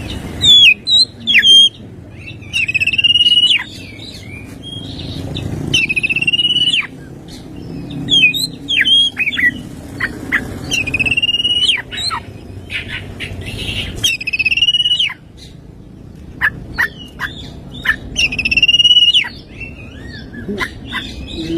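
Oriental magpie-robin (kacer) singing loudly. Its song repeats every three to four seconds: a few sharp, quick down-slurred notes, then a held, slightly wavering high whistle.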